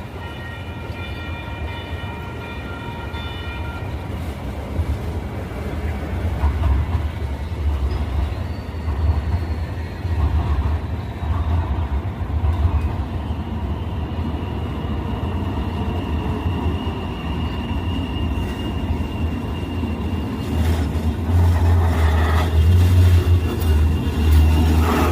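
Light rail train running past, a low rumble that builds and is loudest near the end, with a faint steady high whine over it. A held multi-note tone dies away in the first few seconds.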